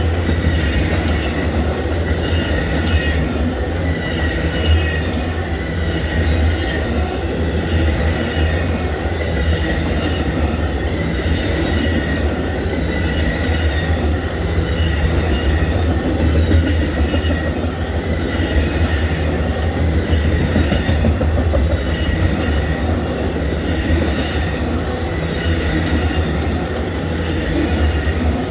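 Cars of the Amtrak Auto Train rolling past: a steady, loud rumble of steel wheels on rail, with a thin high wheel squeal that comes and goes.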